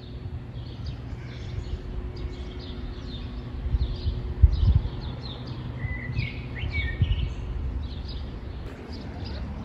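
Small birds chirping and twittering again and again over a low steady rumble, with a thump about halfway through and another a little later.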